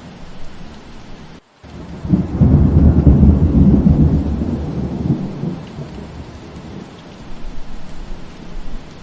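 Steady rain with a roll of thunder: a deep rumble comes in about two seconds in, swells, and dies away over a few seconds. Just before it the rain cuts out for a split second.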